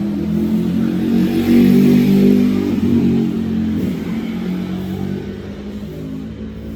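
A motor vehicle's engine passing by, swelling to its loudest a couple of seconds in and then fading.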